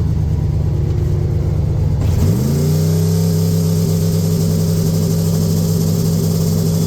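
Turbocharged LS V8 in a pickup truck idling, then revved quickly about two seconds in and held at a steady higher rpm on the transmission brake. The turbo, which is stiff to spin, is making no boost.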